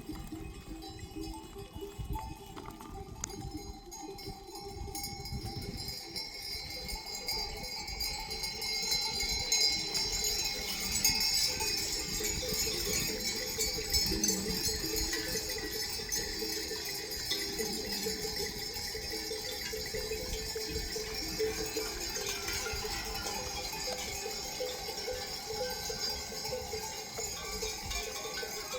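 Many small livestock bells jangling on a moving flock of sheep, building up from about six seconds in and then going on steadily.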